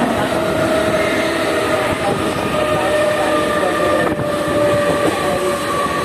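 Mumbai suburban electric local train running at speed, heard from inside the coach by an open doorway: a loud steady rumble and rattle of wheels on track, with a steady whine held over it.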